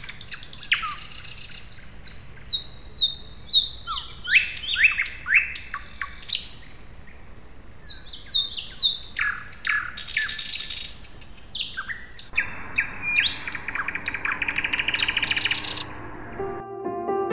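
A songbird singing a varied song: runs of short repeated falling chirps and sharp whistles, then a long buzzy trill that cuts off shortly before the end.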